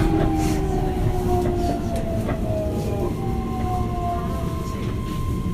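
Keihan Katano Line electric commuter train heard from inside the car while running between stations. There is a steady rumble of wheels on rail, and the motor whine slides down in pitch; a steady higher tone comes in about three seconds in.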